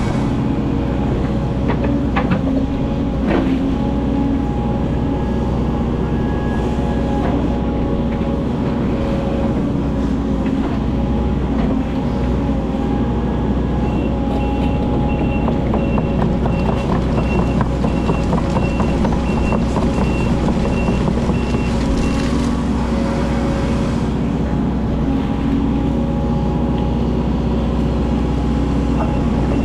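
Excavator's diesel engine running steadily while it works, with a couple of sharp knocks early on. A high warning alarm beeps about twice a second for several seconds around the middle and starts again near the end.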